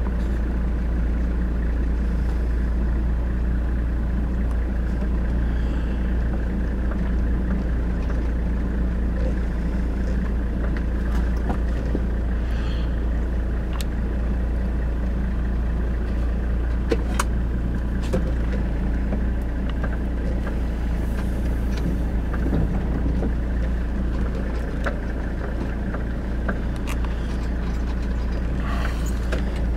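Car engine running steadily with a low rumble, heard from inside the car's cabin, with a couple of brief clicks about halfway through.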